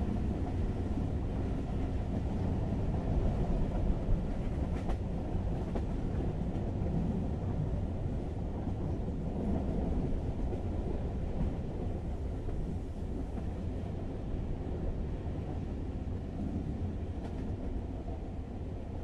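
Steady low rumble of a moving passenger train heard from inside the carriage, with a couple of faint clicks from the running gear.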